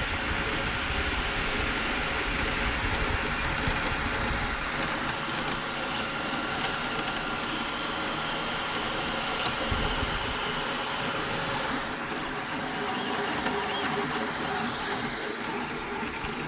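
Small machine running steadily: a whirring hiss with a thin steady whine, the low rumble easing after about five seconds.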